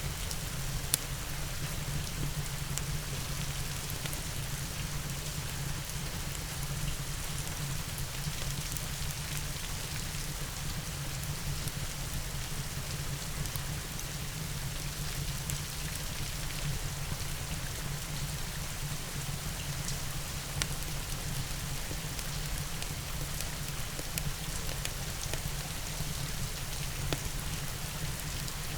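Steady rain falling, with scattered sharp crackles of a wood fire in a fireplace, a few of them louder.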